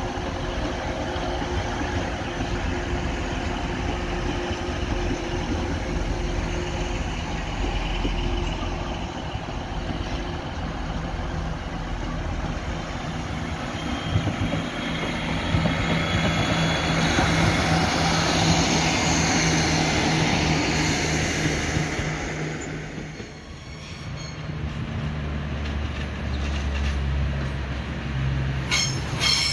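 A train running past on the track, its rushing noise building to a peak and then falling away. A low steady hum of a train engine follows near the end.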